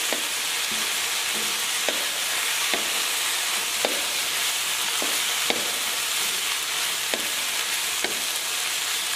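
Stir-fried white cabbage and vegetables sizzling steadily in a hot pan while being stirred, with a utensil knocking against the pan at irregular moments.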